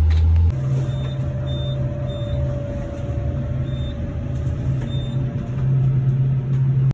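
Motor vehicle engine running steadily: a deep hum with a steady whine above it, and a few faint short high beeps.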